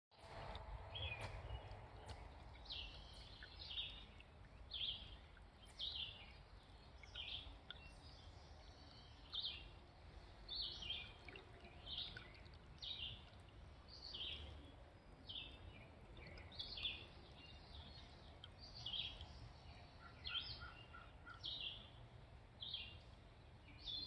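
Birds calling in a bog: a short, sharp downward-sweeping chirp repeated over and over, about once a second, with a brief run of about five quick, lower pips about twenty seconds in, over a faint low rumble.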